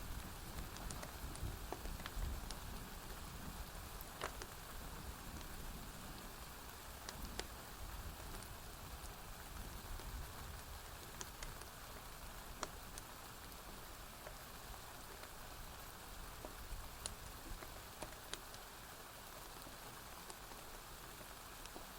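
Steady rain falling on a porch roof, with scattered sharp crackles and pops from a wood fire. A low rumble of distant thunder dies away over the first few seconds.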